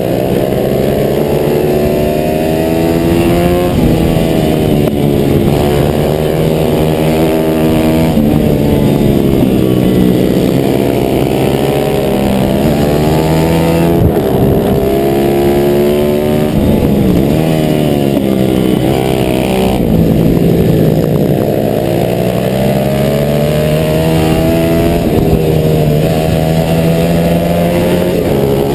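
Stock 140 cc single-cylinder pit bike engine at race pace, heard from on the bike: the revs climb and drop again and again every few seconds as it accelerates and backs off around the track.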